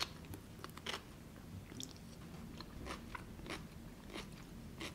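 Crisp crunching and chewing of raw cucumber noodles, with irregular crunches roughly twice a second.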